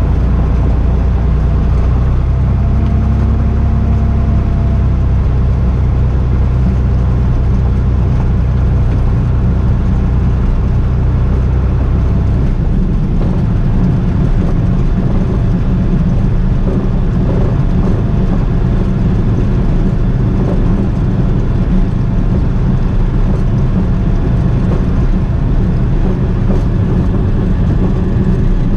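Cessna 206 Turbo's piston engine and propeller running steadily, heard from inside the cockpit. Its low note changes about twelve seconds in, a change in engine power.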